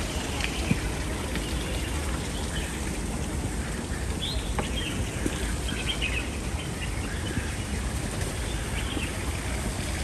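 Birds chirping in short, scattered calls over a steady background of outdoor noise.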